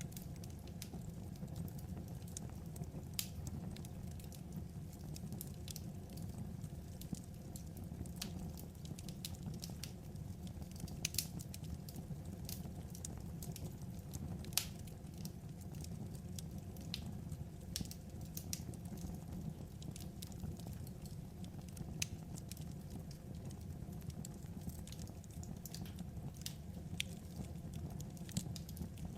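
Wood fire crackling, with irregular sharp pops, a few louder than the rest, over a steady low rumble of the burning logs.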